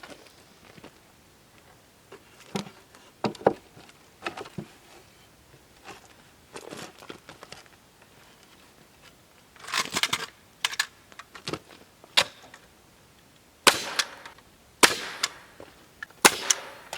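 Irregular sharp knocks and clacks of hammer work on wood, pulling nails out of old boards.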